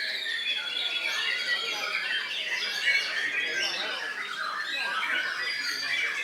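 Many caged songbirds singing at once: a dense, continuous mix of overlapping chirps, whistles and squawks.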